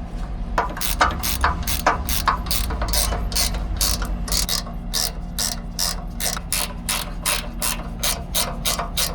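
Hand ratchet wrench being worked on a fitting on a truck's air valve, its pawl clicking about three times a second from just after the start, over a steady low hum.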